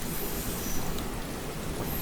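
Steady rain on a train window over the low, continuous rumble of a moving train.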